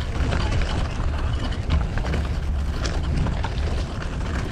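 Street ambience heard from a moving bicycle: a steady low rumble of wind on the microphone and road noise, with traffic sounds and scattered small clicks and knocks.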